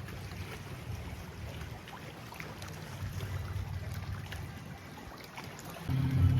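Water lapping and trickling over a low, steady rumble, with small scattered splashes. About six seconds in, a louder steady hum with a fixed pitch starts.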